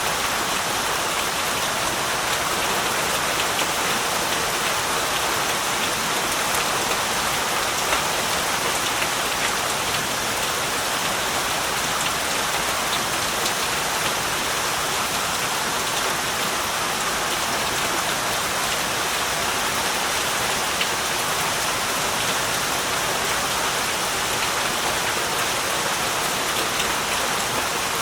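Steady heavy rain falling, a dense even hiss with many individual drops pattering on surfaces.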